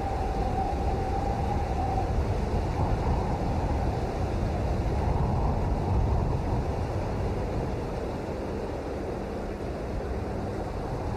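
Steady rain: an even, unbroken rush of noise with most of its weight in the low end.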